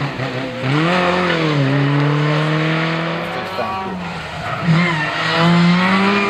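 Historic rally car engine under hard acceleration. Its pitch dips and climbs early on, then rises steadily through a gear. About four and a half seconds in, the pitch drops at a gear change and climbs again.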